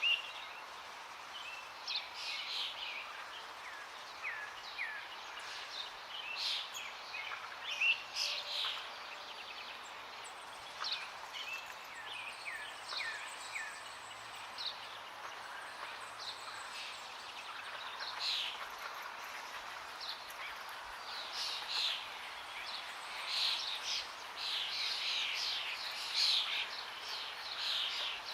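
Several songbirds chirping and trilling over a steady rush of flowing water, the birdsong growing busier in the last third.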